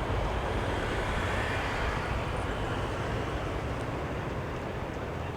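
Jet airliner's engines rumbling as the aircraft moves away, a steady noisy roar that slowly fades.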